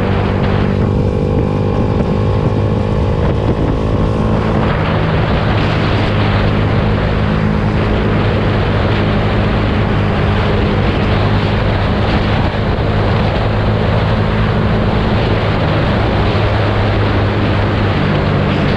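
Yamaha YZF-R125's 125 cc single-cylinder four-stroke engine running steadily through its exhaust, a constant low drone. Over the first four seconds a higher whine shifts in pitch before giving way to a steady hiss.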